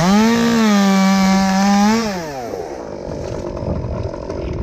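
Two-stroke chainsaw revved up to full throttle and held there for about two seconds while cutting, its pitch sagging slightly under load. It then drops back to idle.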